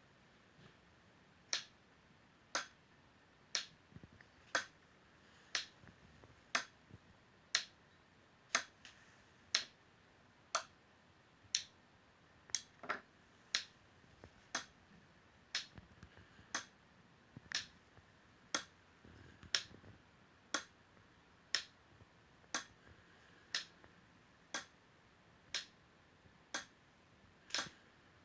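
Sharp clicks repeating steadily about once a second, with an occasional extra click close after one.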